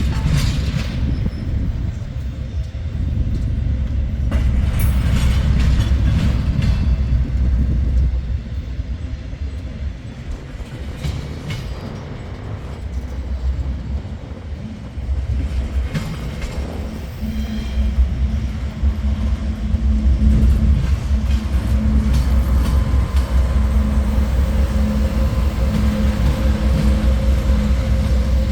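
Union Pacific diesel locomotive running, a heavy steady low rumble with a few sharp knocks. About halfway through, a steady low hum joins in and holds.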